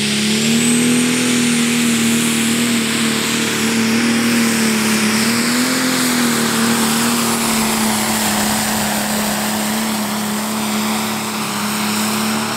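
Pro Stock pulling tractor's single-turbo diesel engine running flat out under load during a pull: a loud, steady engine note that wavers slightly, with a high whistle climbing over the first couple of seconds.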